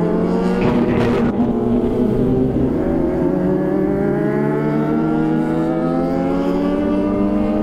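Kawasaki ZX-25R's inline-four engine running while riding, its pitch sagging over the first couple of seconds, then climbing steadily through the rest as the revs build.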